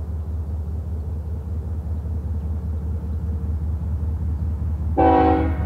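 GE ES44DC diesel locomotives of an approaching freight train, a steady low rumble that slowly grows louder, then a short loud blast of the locomotive's multi-tone air horn about five seconds in.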